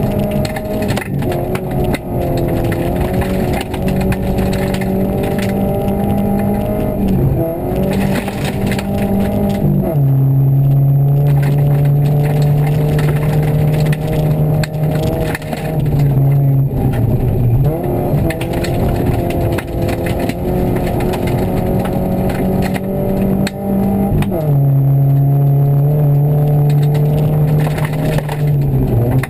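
Rally car engine heard from inside the cabin, pulling hard with a steady note that jumps in pitch several times as gears change, dropping lower about ten seconds in and again near the end. Scattered cracks and knocks from the car over the snowy stage run underneath.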